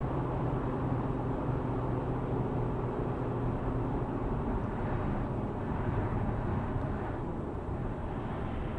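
Steady engine and road noise of a moving car, an even low hum.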